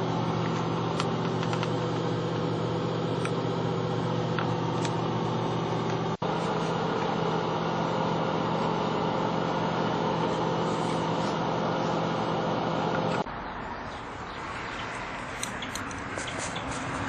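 A machine running steadily with a hum and a hiss. It breaks off for an instant about six seconds in, then about thirteen seconds in it switches abruptly to a quieter, rougher noise.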